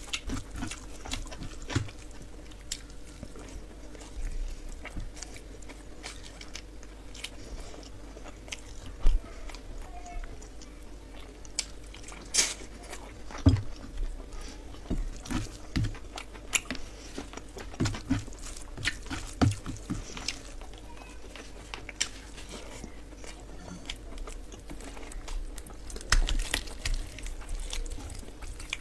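Close-miked eating by hand: chewing and wet lip-smacking of a mouthful of rice and curried chicken, with irregular sharp clicks and smacks. Fingers squish through the rice and curry, over a faint steady hum.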